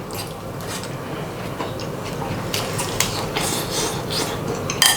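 Tableware clattering at a meal: light clinks and scrapes of utensils against bowls and plates, with a sharper ringing clink near the end.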